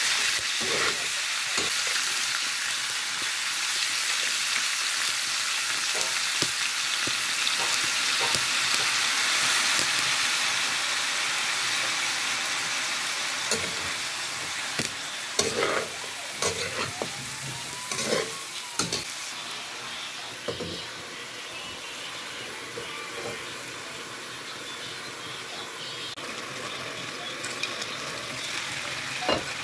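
Chicken feet sizzling in hot cooking oil in a metal wok, with a metal spatula scraping and knocking against the pan as they are stirred. The sizzle is strongest in the first half and eases after that, while the spatula knocks come most often in the middle.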